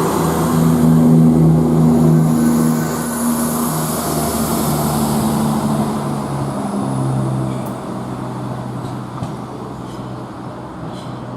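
A train moving at the platform, its motor drone holding steady tones that step down in pitch a few times while the sound fades as it draws away.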